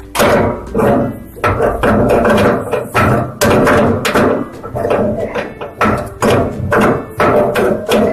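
Rapid, irregular knocking and clanking of hand tools, several loud hits a second.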